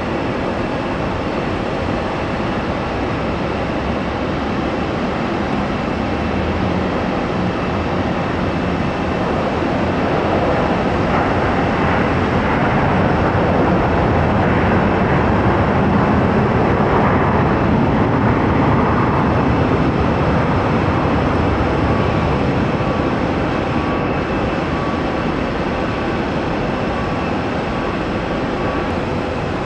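Jet airliner engines passing by: a wide rush of engine noise that builds to a peak about halfway through and then fades away.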